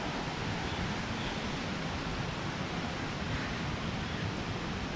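Steady rush of water, an even noise that holds level throughout.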